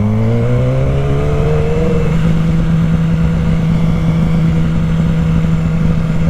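Yamaha R6 sport bike's inline-four engine accelerating, its pitch rising for about two seconds and then holding steady at cruising revs, with wind noise rushing over the microphone.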